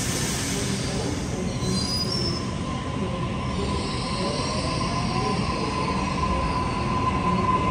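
Electric passenger train moving along the platform: a steady rumble under a high steel wheel squeal that grows louder through the second half, with a brief rising whine about halfway.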